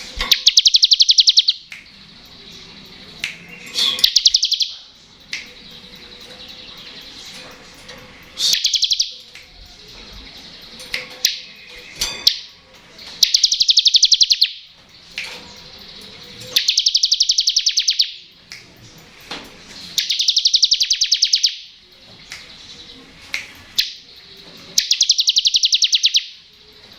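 Bar-winged prinia (ciblek) singing its rapid rattling 'ngebren' trill. Each high, buzzy trill lasts one to two seconds and repeats about every three to four seconds, with short chirps in between.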